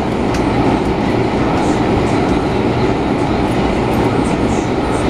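MTR Tung Chung Line A-Train, an Adtranz-CAF electric multiple unit, running along the track: a steady, loud rumble of wheels and running gear with a faint clickety-clack.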